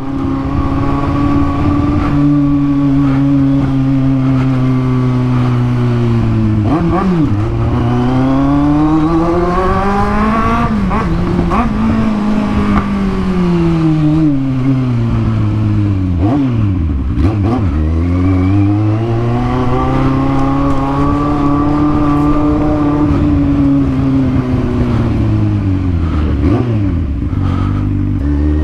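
Kawasaki Z750 inline-four motorcycle engine with an open, straight-through exhaust, heard while riding. It cruises steadily at first, then rises and falls several times with throttle and gear changes, with quick dips in pitch at the shifts.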